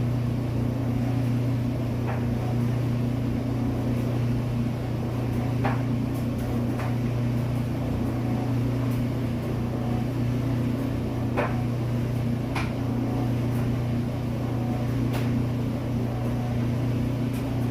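A machine runs with a steady, loud low hum. A few short high ticks come and go over it.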